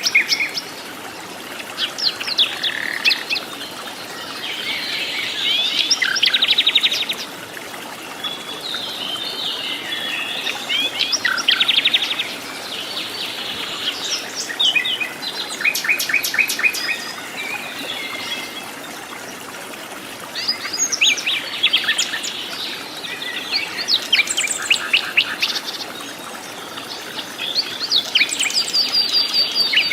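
Forest birds singing: short phrases of rapid chirps and trills, repeated every few seconds, over a steady background hiss.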